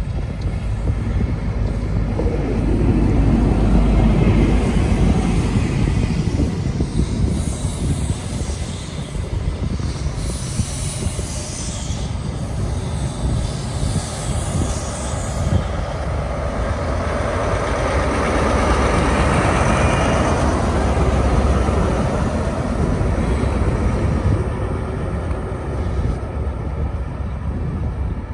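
High Speed Train with Class 43 diesel power cars passing close by: a loud low engine rumble as the leading power car goes past, then the coaches rolling by on the rails with a steady hiss and rumble of wheels on track.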